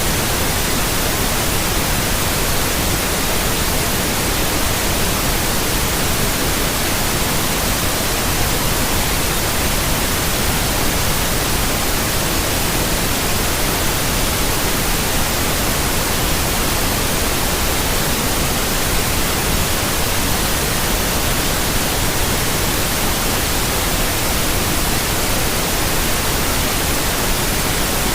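Steady white noise: an even, unchanging hiss spread across the whole frequency range.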